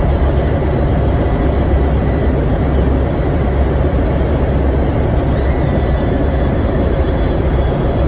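Generator engine running, a loud steady rumble with a constant hum.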